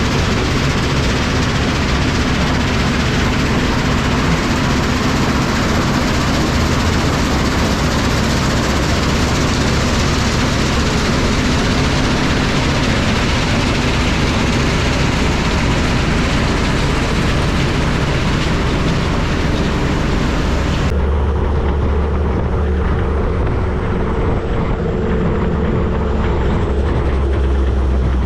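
Diesel dump truck running on the road, with steady loud engine and road noise. About two thirds of the way through, the sound changes abruptly to a lower, duller engine rumble.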